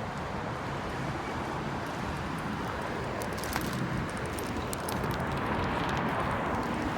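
Steady wind and road noise from riding a Bird electric rental scooter through city streets, with a few light clicks or rattles about three to four and a half seconds in.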